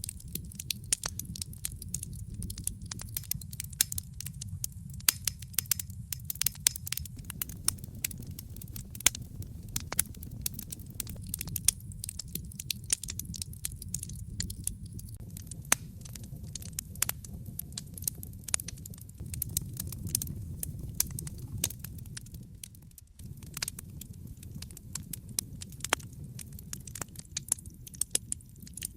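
Wood fire crackling in a fireplace: a steady low rumble of the flames with a dense run of small sharp pops and snaps, a few louder ones among them.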